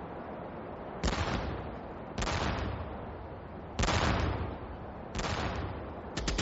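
Gunfire sound effects: four heavy blasts, each dying away over a second or so, over a steady drone. A rapid burst of machine-gun fire begins right at the end.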